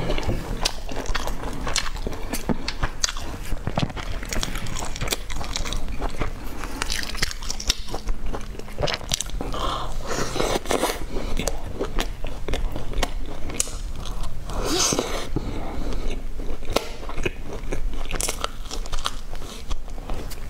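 Close-miked eating: biting and chewing pieces of dense brown cake dipped in a thick dark sauce, a constant run of small wet clicks, loudest around ten and fifteen seconds in.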